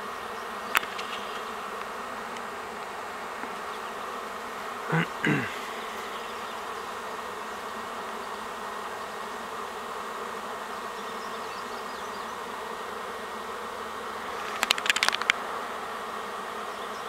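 Honeybee swarm buzzing: the steady, dense hum of thousands of bees flying in the air. A short pitched sound comes about five seconds in, and a quick cluster of clicks near the end.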